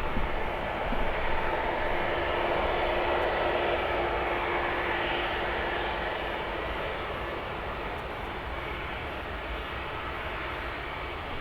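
Airliner engines running near the airfield, a steady rushing noise with a held tone that fades out about halfway through. The whole sound slowly grows quieter.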